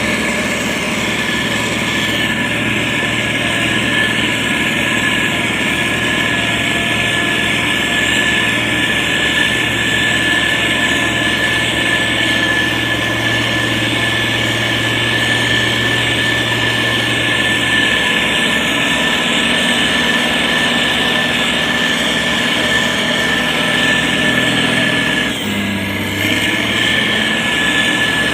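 Diesel engine of heavy road-building machinery running steadily, with a constant high whine over it. About 25 seconds in the engine note briefly dips and shifts.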